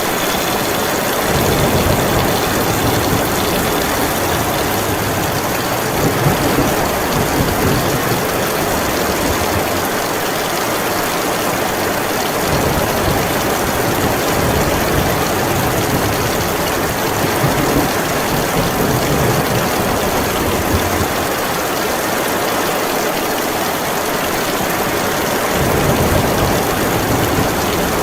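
Heavy rain falling in a steady, dense hiss, with a low rumble that swells in early, fades out about three quarters of the way through and comes back near the end.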